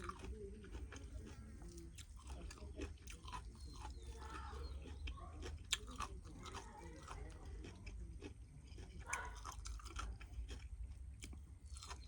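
Close, faint chewing and mouth sounds of a person eating a home-cooked meal, with scattered small clicks and one sharper click about halfway through.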